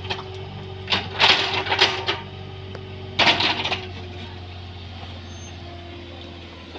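Bobcat 322 mini excavator's diesel engine running steadily, with two short, loud, harsh noisy bursts about a second and three seconds in.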